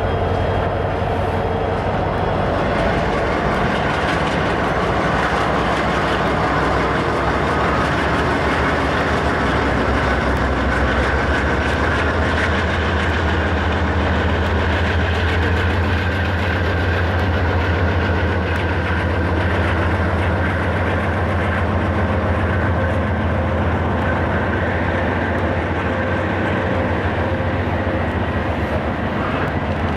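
A train running on the rails: a steady rumble of wheels and cars with a low, constant drone underneath.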